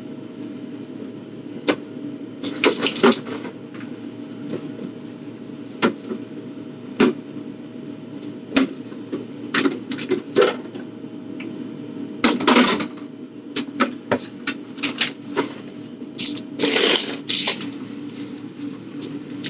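Scattered clicks, knocks and clatters of household objects being handled, with a few busier bursts of rattling, over a steady low hum.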